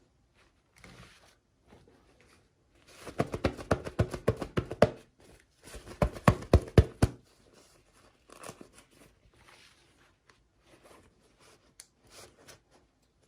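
Plastic toy packaging being handled and torn open. It gives two bursts of rapid crackling and crinkling, the first about three seconds in and the second about six seconds in, with quieter rustling around them.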